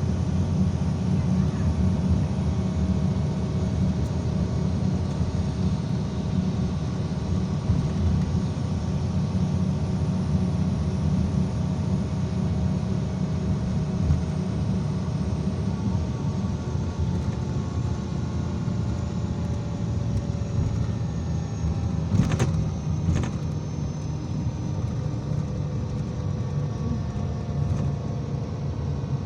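IVECO Crossway 13M PRO city bus heard from inside the cabin while driving: a steady low rumble with a drivetrain whine that slowly falls in pitch partway through as the bus slows. About two-thirds of the way in there are two sharp knocks about a second apart.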